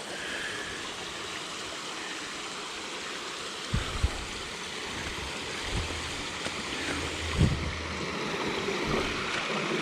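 Spring water running and splashing out of a hillside, a steady rush, with a few short low thumps in the middle and later.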